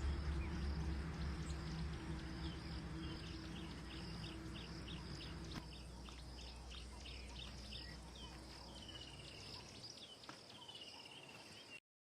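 Background music fading out under a wild ambience of short high bird chirps repeating a couple of times a second, then a few longer, slightly falling trills. The sound cuts off suddenly just before the end.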